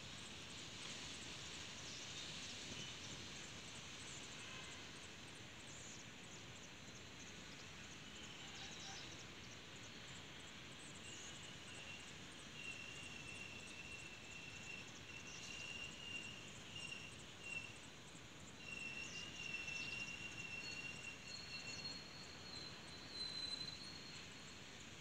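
Passenger train coach rolling slowly along the rails, heard from its window, with a steady low rumble and occasional faint clicks. From about halfway through, a thin, steady high squeal comes and goes as the train brakes into the station, rising to a higher squeal near the end.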